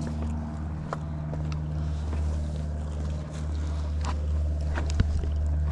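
A steady low hum, like a distant engine, runs throughout, with a few scattered clicks and scuffs of footsteps on rock, one sharper knock about five seconds in.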